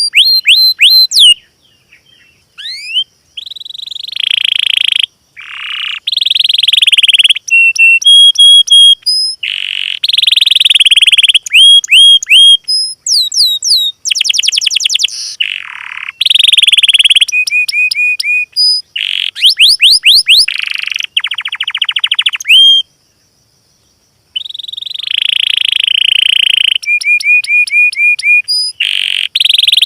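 Loud songbird song from a masteran training recording for cage birds: fast trills, runs of rapidly repeated whistled notes and harsh buzzy rattles. The song cuts out abruptly for about a second and a half a little past two-thirds of the way through, then resumes.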